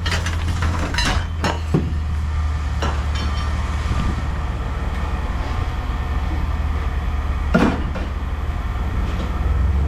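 Scrap metal pieces clanking and clinking as they are handled, a handful of separate knocks with one louder ringing clank near the end. A steady low machine hum runs underneath.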